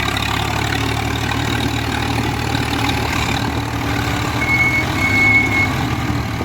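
Swaraj tractor's diesel engine running steadily at low revs. A thin, high-pitched tone sounds twice in quick succession about four and a half seconds in.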